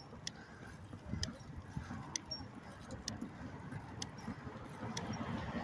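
Riding sounds of a bicycle: a light metallic click about once a second, evenly spaced, over a low rumble of wind and tyres.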